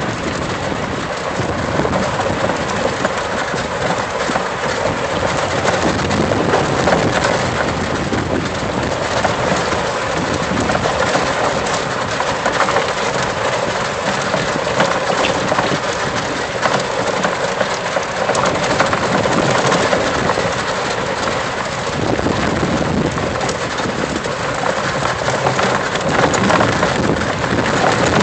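Steady rough, crackling noise of a battery-powered vehicle riding along a dirt trail: mostly tyres on dirt, with no engine note.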